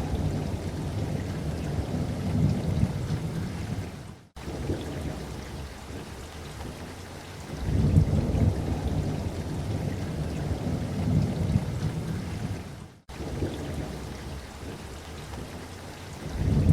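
Steady rain with deep rolling thunder, the rumbles swelling three times: at the start, in the middle and again near the end. Twice the sound cuts out for an instant, like a splice in a looped recording.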